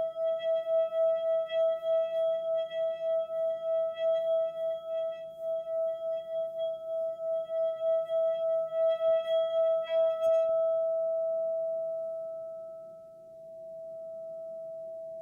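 A sustained ringing musical tone, of the singing-bowl kind, with overtones above it and a regular pulsing wobble of a little over two beats a second. About ten seconds in, the overtones and the pulsing fade with a couple of faint clicks, and a single plain tone carries on, dipping and then swelling again.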